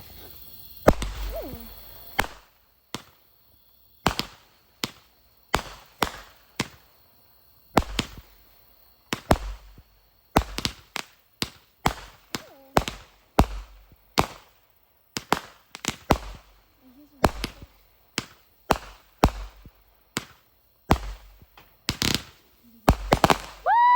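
A 25-shot consumer firework cake firing shot after shot: a long string of sharp bangs, about one to two a second at uneven intervals, the loudest coming near the end.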